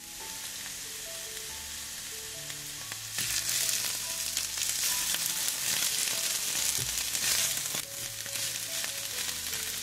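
Shredded white cabbage sizzling as it fries in olive oil over high heat in a frying pan, tossed with spatulas; the sizzle grows louder about three seconds in.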